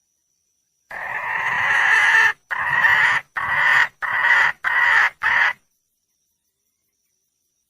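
Junglefowl hen calling for a mate: one long call about a second in, followed by five shorter calls in quick succession.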